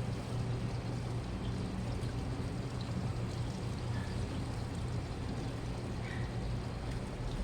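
Washing machine running, with water moving inside the drum over a steady low motor hum.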